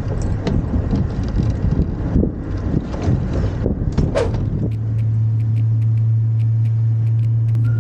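Rough, uneven rumble of wind on the microphone during a motorboat ride, with a few brief pitched cries. About five seconds in it cuts abruptly to a steady low hum with faint, regular ticks.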